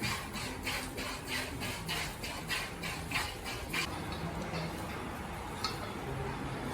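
A cow chewing feed in rhythmic crunches, about three or four a second, stopping about two-thirds of the way through.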